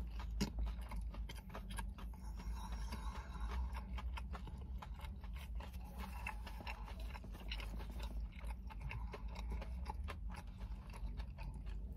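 A person chewing a mouthful of crispy-coated chicken wrap, with soft, irregular wet clicks and light crunches.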